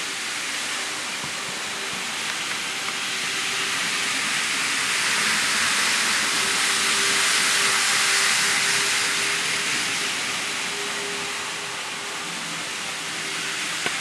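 N-scale model train running on its track, a steady hissing rush of wheels and small motor that grows louder toward the middle and then fades as it passes and moves away, over a faint steady hum.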